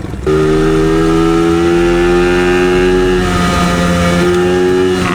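Dirt bike engine running hard at high revs under throttle, holding a steady pitch that shifts slightly about three seconds in.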